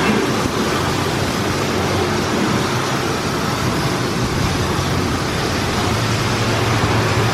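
Automatic soft-touch car wash running: a steady rush of water spray and machinery noise with a low hum underneath.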